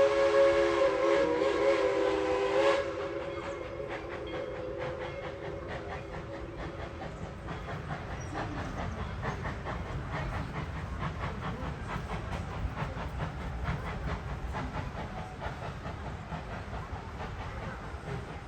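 Tweetsie Railroad steam locomotive #190's chime whistle sounding a chord that sags slightly in pitch and cuts off about three seconds in. The train's wheels then keep up a low rumble with a rapid clickety-clack.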